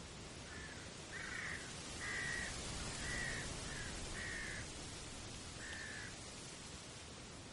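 A bird calling: a series of about seven short calls, roughly one a second, starting about half a second in and stopping around six seconds, over a steady background hiss.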